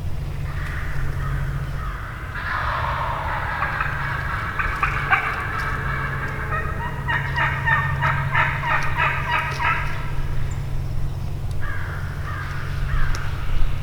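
Wild turkeys gobbling in the woods: four bouts of rattling gobbles, the longest in the middle, where several overlap.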